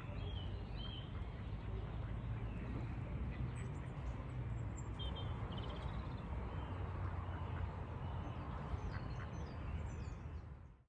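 Ducks quacking, with small birds chirping, over a steady low rumble; the sound fades out quickly near the end.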